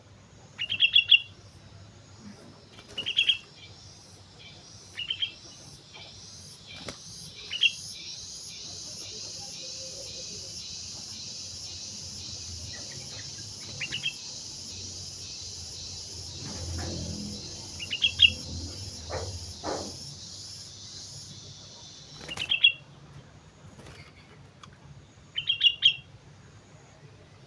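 Sooty-headed bulbul calling: short, loud, bubbly phrases repeated every few seconds. A steady high-pitched buzz runs under the calls from a few seconds in until near the end.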